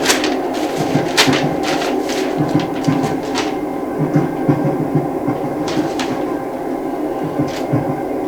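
Rumble of a moving train, with a steady hum, repeated low thuds and a few sharp knocks or clicks.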